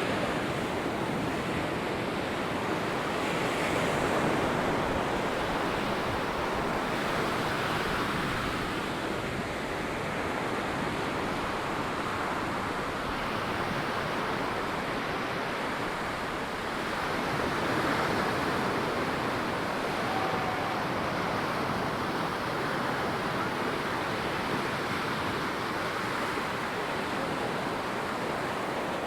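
Surf breaking and washing up on a sandy beach, a steady rushing wash that swells and eases slowly.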